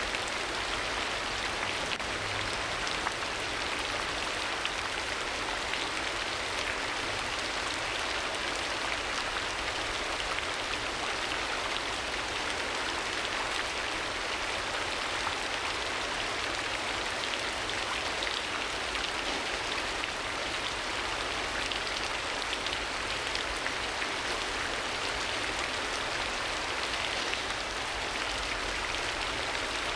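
Steady rain falling, an even hiss with a dense patter of drops that holds at one level throughout.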